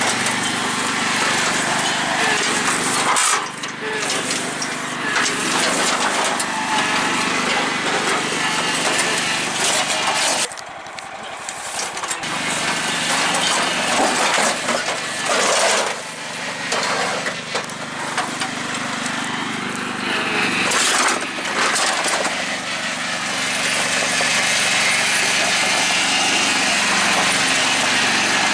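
MTD lawn tractor's small engine running, with the sound of the machine being driven hard. It drops away briefly several times, longest for about a second and a half near the middle. A few sharp knocks are heard.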